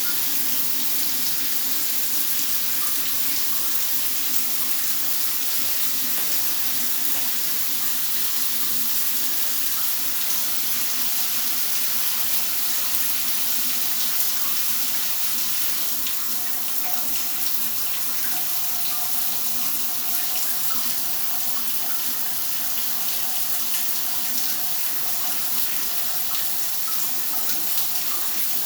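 Steady rain falling, an even hiss of countless drops.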